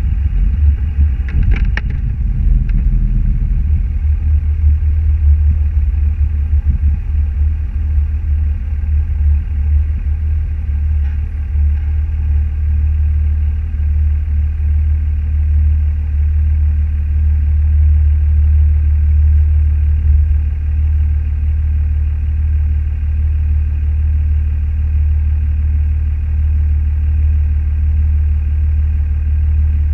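A car driving, a steady low rumble of engine and road noise, with a few light clicks about two seconds in.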